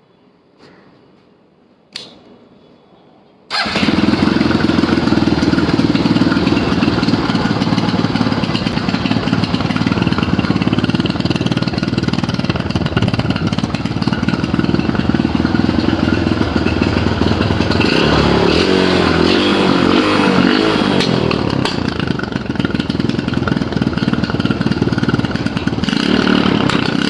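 Motorcycle with a Karizma 223 cc single-cylinder four-stroke engine fitted, starting up about three and a half seconds in after a single click, then running loud. Its revs rise and fall once around two-thirds of the way through.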